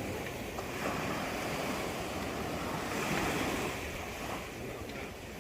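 Sea waves washing, swelling and easing.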